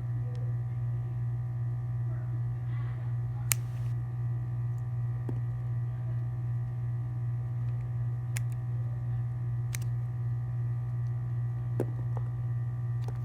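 A steady low hum with about five sharp, isolated clicks spread across it.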